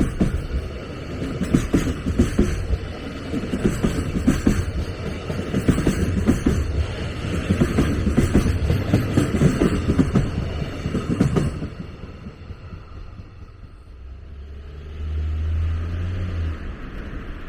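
A train passing at trackside: rumbling, with many wheel knocks over the rail joints. The sound drops off abruptly about two-thirds of the way through, and a low hum swells briefly near the end.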